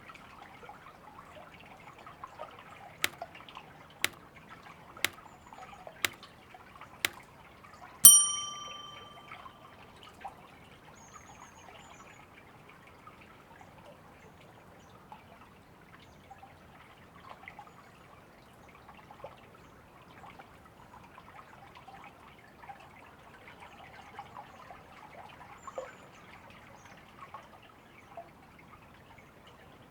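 River water running steadily. About three seconds in come five sharp ticks one second apart, then a single bright bell-like ding that rings out over about a second and a half.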